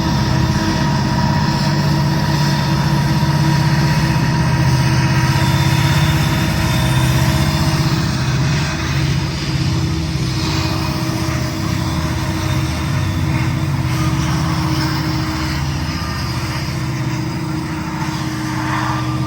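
Norfolk Southern manifest freight train passing below: a steady low drone with continuous rolling noise of wheels on rail.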